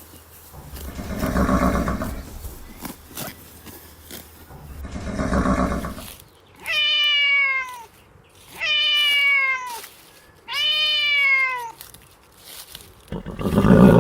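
An animal's sound sequence: two long breathy blows, then three short calls, each about a second long, falling in pitch, spaced about two seconds apart, and another breathy blow near the end.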